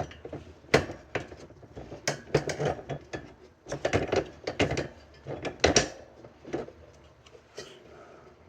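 Irregular metallic clinks and knocks of hand tools and parts being handled while working on a bicycle wheel hub.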